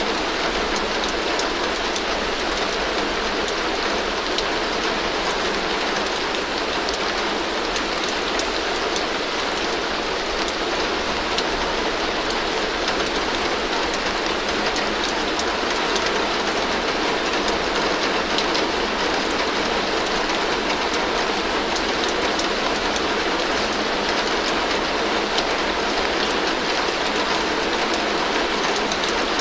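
Heavy rain falling steadily on a tin roof, a dense, even hiss of countless drops striking the metal, with no change in strength.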